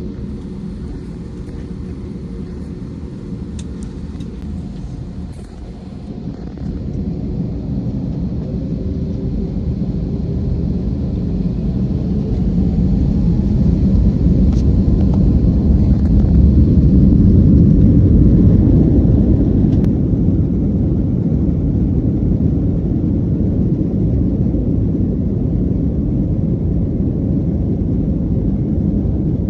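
Airbus airliner's engines and rushing air heard inside the cabin as a loud, deep rumble. It swells from about six seconds in, peaks a little past the middle, then holds steady.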